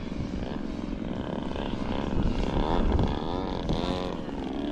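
Electric motor and propeller of a 67-inch Extreme Flight Extra 260 RC aerobatic plane in flight, its pitch sweeping up and down several times as the throttle and the plane's passes change.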